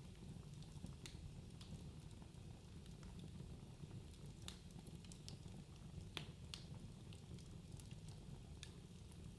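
Wood fire burning in a fireplace, a steady low rumble with scattered sharp crackles and pops.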